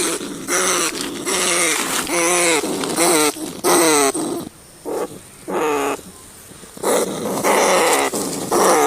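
Rat squealing in distress: a string of harsh cries, each about half a second long with a falling, wavering pitch, coming in quick succession, with a lull of a couple of seconds a little past the middle.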